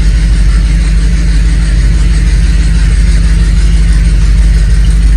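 1972 Ford F-250 pickup's engine running steadily, a loud, even low drone with no revving.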